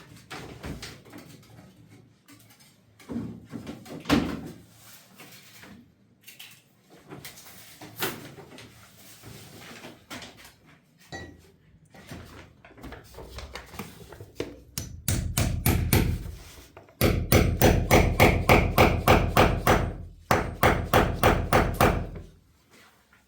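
Hammering: scattered knocks and bumps, then about two-thirds in a fast, even run of blows, about four or five a second, broken once briefly before stopping near the end.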